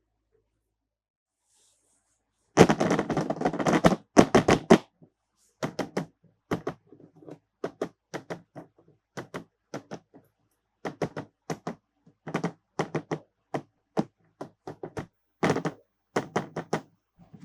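Hard plastic clicking and knocking from toys and their parts being handled. A fast clatter starts a couple of seconds in and lasts about two seconds, then gives way to separate, irregular clicks and taps.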